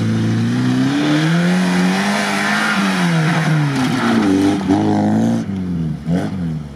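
Lada Niva's petrol engine revving up and down under load as the 4x4 drives over muddy grass and past close by. About five and a half seconds in the engine sound drops away as it pulls off.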